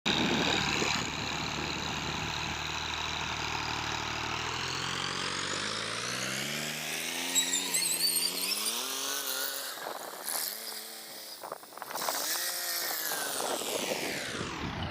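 Tractor engine whose pitch climbs steadily for about ten seconds, wavers, then drops sharply near the end.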